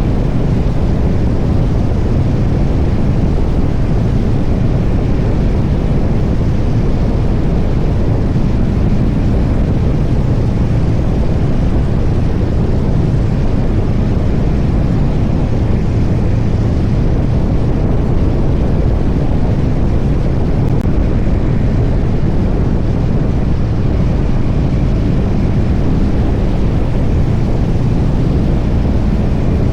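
Harley-Davidson Street Bob's Milwaukee-Eight 114 V-twin running at a steady cruise, mixed with wind rushing over the microphone at riding speed.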